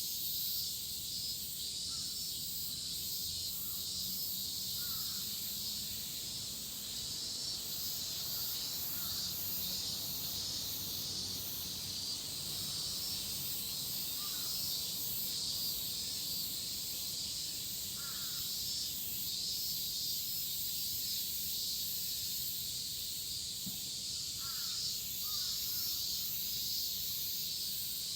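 A dense chorus of cicadas shrilling in a steady, high-pitched drone that swells and pulses slightly. Short bird calls sound faintly now and then over it.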